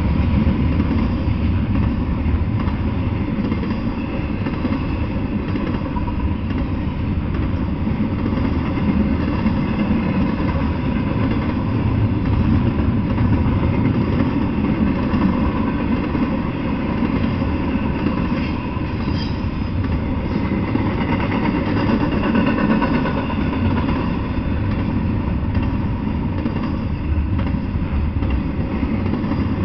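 Double-stack intermodal freight train rolling past: a steady, loud rumble of container well cars running on the rails.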